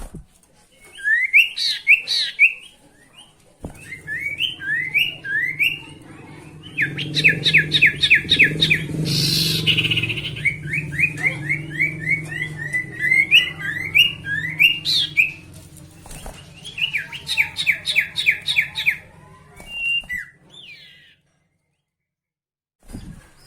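Sirtu (ashy tailorbird) singing: a string of sharp chirps given in quick series and in fast rattling trills, in several bursts. A low hum runs under much of it, and the song breaks off briefly near the end.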